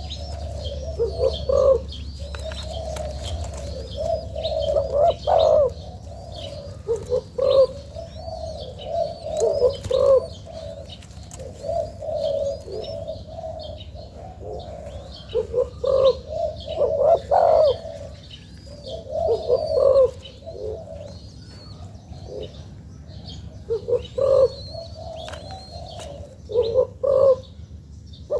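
Young spotted dove cooing over and over in short repeated low phrases, with small birds chirping high in the background.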